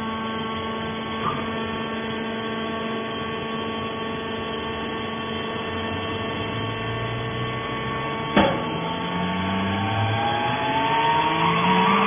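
Hydraulic fiber baling press running with a steady machine hum, a small click a little over a second in and a sharp clank about eight seconds in, after which rising tones come in and the sound grows a little louder.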